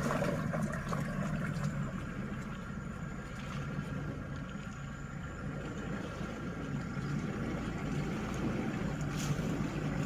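A pickup truck engine running steadily with a low hum.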